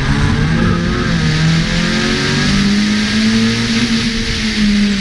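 Opel Corsa B's 1.4-litre 16-valve four-cylinder engine pulling hard at high revs, its pitch climbing in steps under acceleration, over a steady rush of wind and road noise.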